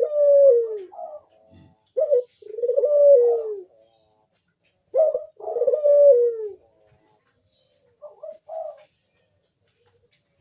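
A burung puter (Barbary dove) cooing its 'manggung' song. Three long coos each fall in pitch, and a softer, shorter coo comes about eight seconds in.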